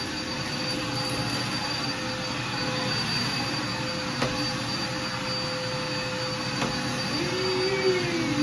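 Vacuum cleaner running steadily, a constant motor whine over a rushing hiss, with a couple of faint clicks.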